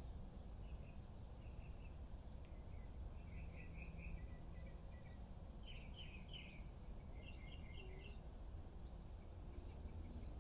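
Faint outdoor ambience: a steady low rumble, with a small bird chirping in several short runs of quick, high notes through the middle of the stretch.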